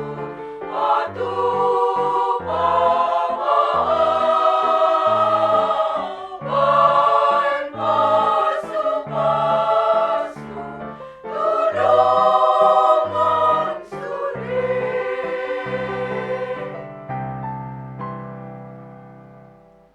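Women's choir singing a church song in parts, ending on a long held final chord that fades away over the last few seconds.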